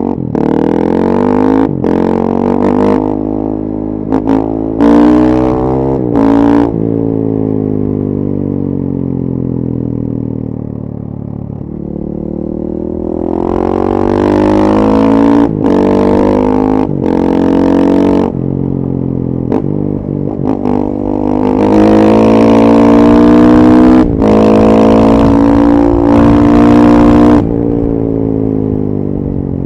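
2014 KTM 450 EXC's single-cylinder four-stroke engine, through a full FMF 4.1 exhaust, accelerating hard through the gears. The pitch climbs and breaks off briefly at each shift. About a third of the way in it falls away in a long deceleration, then pulls up through the gears again, loudest near the end.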